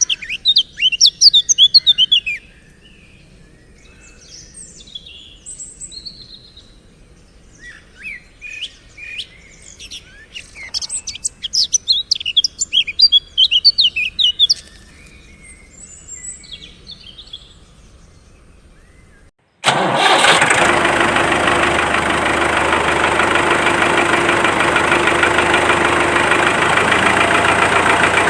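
Small birds chirping in quick bursts of high notes, then about two-thirds of the way in a sudden cut to a small DC motor running loudly and steadily.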